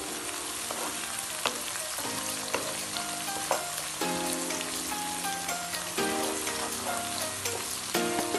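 Sliced onions and garlic sizzling in hot oil in a karahi, a steady frying hiss with faint scrapes as a wooden spoon stirs them. Soft background music of held notes plays over it.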